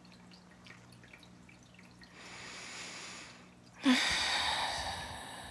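A person breathes in softly about two seconds in, then lets out a long, airy sigh that starts suddenly and fades away over the last couple of seconds, over a faint steady hum.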